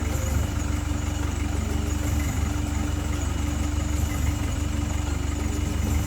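Tour vehicle's engine running steadily with a low, constant rumble.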